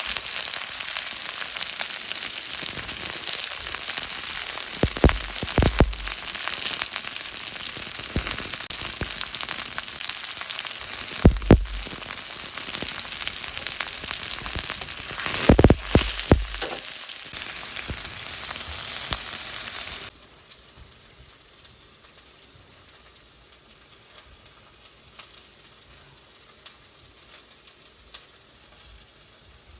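Prawns sizzling in a hot pan, a loud steady frying hiss with a few sharp knocks of a utensil against the pan. About two-thirds of the way through, the sizzle drops suddenly to a faint crackle.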